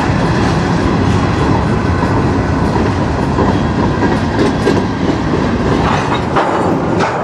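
Covered hopper cars of a freight train rolling past close by: a steady rumble of steel wheels on rail, with a few sharper clacks in the second half as wheelsets cross rail joints.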